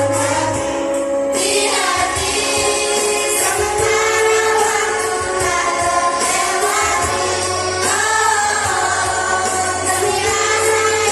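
Primary-school children's choir singing an Indonesian farewell song in unison over an instrumental accompaniment, with a steady low bass note underneath.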